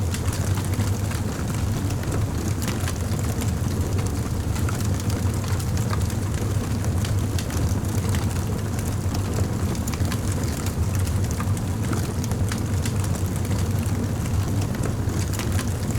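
Campfire burning: a steady low rumble of flame with frequent small crackles and pops of burning wood throughout.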